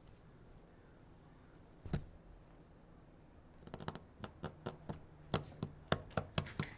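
A single knock, then from a little past halfway a run of quick, light taps and clicks, several a second, as small objects and supplies are handled on a work surface.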